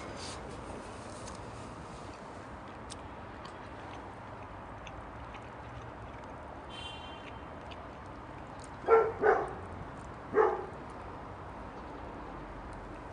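A dog barking three times: two quick barks about nine seconds in and a third a second later, over a steady background hiss with scattered faint ticks.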